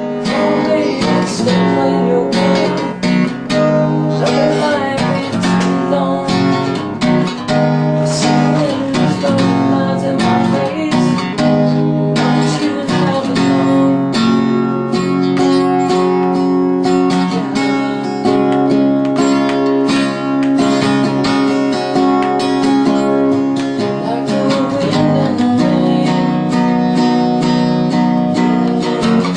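Music: a song led by a strummed acoustic guitar playing chords.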